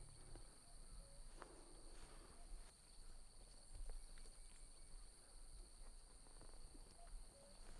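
Near silence: faint ambience with a steady high-pitched hum and a few scattered soft ticks and rustles.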